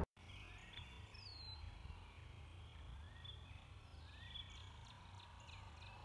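Faint songbird calls: scattered short whistled notes and chirps, some sliding down in pitch, over a low steady rumble.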